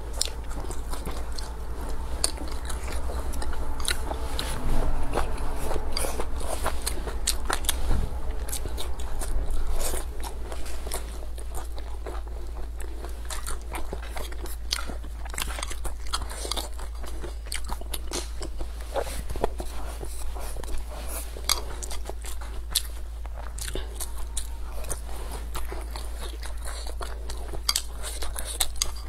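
Close-up chewing and biting of braised squid, with many small clicks of the mouth, over a steady low hum.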